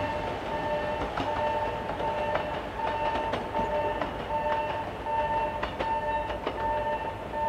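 A train moving off along the tracks, its wheels clicking irregularly over the rails under a steady rumble. Over it rings a repeating electronic warning tone that keeps sounding and breaking off.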